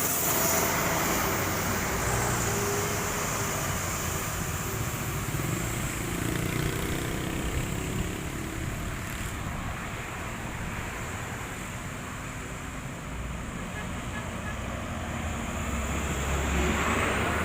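Heavily loaded truck's diesel engine running under load amid road traffic noise, louder near the start and again near the end.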